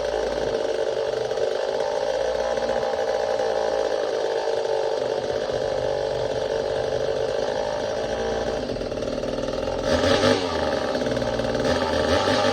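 Two-stroke engine of an early-1970s Craftsman chainsaw, a Poulan copy, running steadily as it is brought back to life. It gets briefly louder about ten seconds in.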